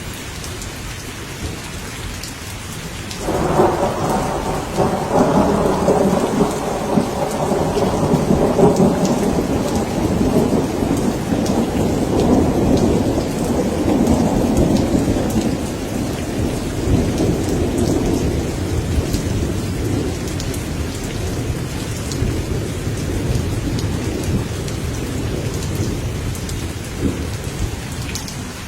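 Steady heavy rain with a long rolling clap of thunder that breaks suddenly about three seconds in, rumbles on for well over ten seconds, and slowly fades.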